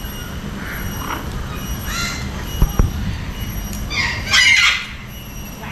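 Parrots calling: a few short calls, then a louder harsh squawk a little past four seconds in.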